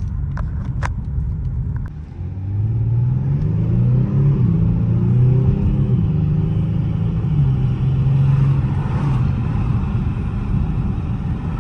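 Twin-turbo 3.3-litre V6 of a 2019 Genesis G70 accelerating: the engine note dips briefly, then climbs in pitch from about two seconds in as the car pulls, and levels off to a steady note for the rest.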